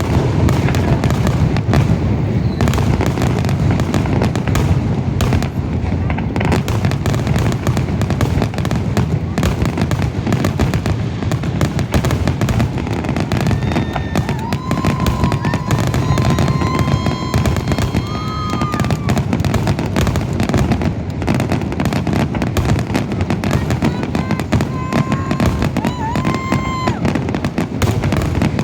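Fireworks finale: a dense, unbroken barrage of bursts and crackle. A steady whistle-like tone sounds over it twice, around the middle and again near the end.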